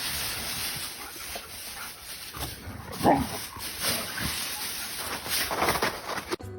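A dog giving a few short vocal calls over a steady background hiss; the loudest, about three seconds in, falls in pitch.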